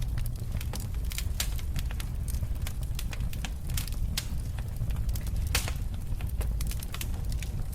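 Wood fire burning in a fireplace, crackling and popping irregularly over a steady low rumble of the flames, with a few louder pops.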